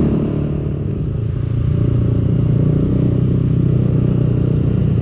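Motorcycle engine running while riding, recorded on the bike. It eases off briefly about a second in, then picks up again and pulls steadily.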